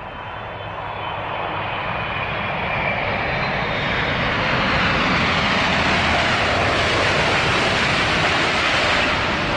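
Jet airliner's engines passing close overhead: a roar that builds over the first few seconds and then holds loud, with a faint high whine early on.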